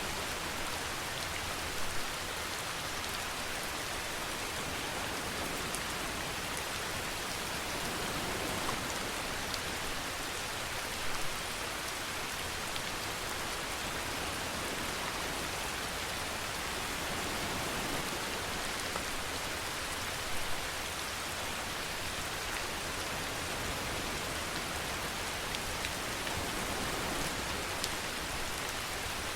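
Steady rainfall, an even hiss of rain on surfaces, with a few single louder drops now and then.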